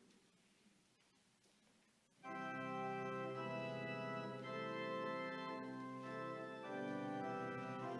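Near silence, then about two seconds in an organ comes in with full sustained chords that shift every second or two.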